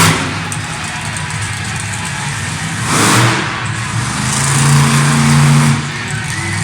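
Monster truck engine running loudly in an arena, revving. There is a sudden rush of noise about three seconds in. The engine swells from about four seconds in and drops back just before six seconds.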